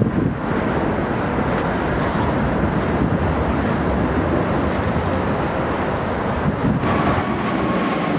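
Jet airliner engine noise mixed with strong wind buffeting the microphone, a steady loud rush throughout. About seven seconds in, the sound changes abruptly and a faint steady tone comes in.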